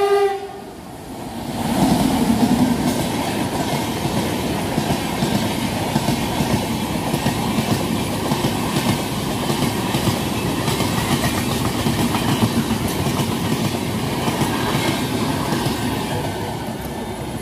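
A locomotive horn ends within the first second. A passenger train then passes close and fast, with a steady heavy rumble and clatter of its wheels over the rails that lasts to the end.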